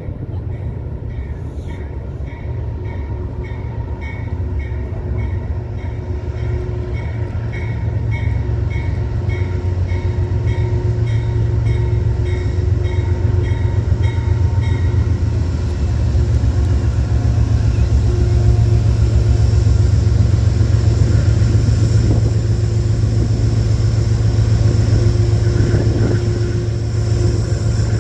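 Metro-North commuter train running through the station: a steady low rumble that grows louder, with a regular high-pitched clicking about twice a second through the first half.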